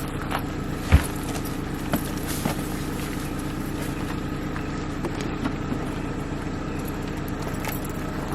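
Car running, a steady engine hum and road noise heard from inside the cabin, with a few light clicks.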